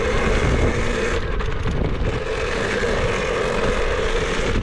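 KTM dirt bike running steadily, with wind buffeting the microphone.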